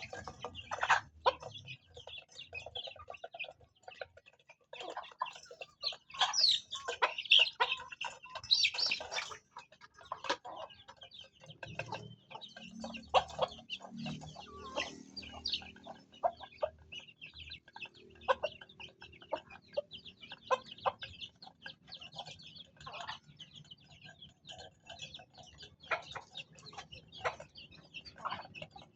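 A flock of chickens clucking, with many short high calls overlapping throughout.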